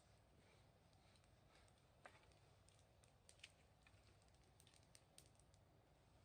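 Faint wood fire crackling: small irregular pops and ticks, one slightly sharper pop about two seconds in and another about three and a half seconds in.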